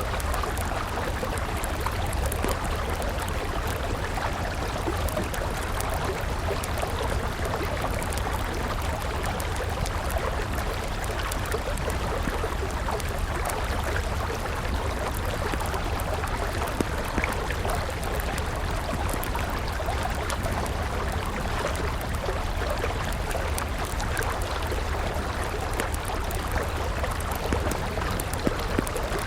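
A river running steadily, with a wood fire crackling over it in scattered small pops.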